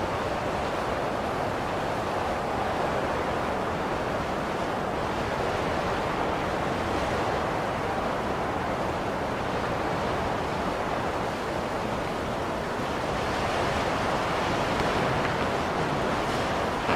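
Blizzard wind blowing in a steady, continuous rush that swells slightly near the end.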